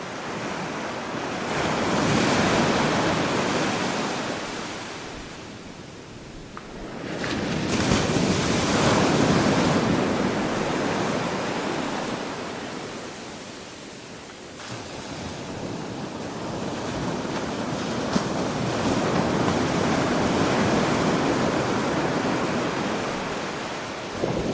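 Ocean surf breaking on a beach, a steady wash of water that swells and falls back in three slow waves.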